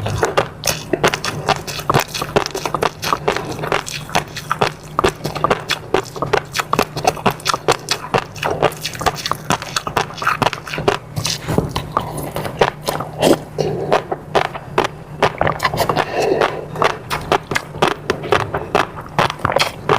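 Close-miked eating sounds: wet chewing and mouth clicks coming several times a second without a break, over a steady low hum.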